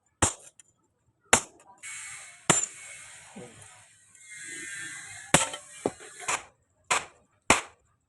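Hammer blows on steel: single sharp strikes that ring briefly, spaced irregularly at first and then coming about every half second near the end. A steady hiss runs between the strikes in the middle.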